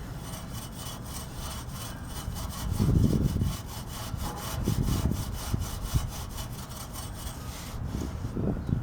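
Rapid back-and-forth scrubbing strokes on the steel frame of a Honda Cub as it is cleaned, several strokes a second, with a few dull low bumps along the way.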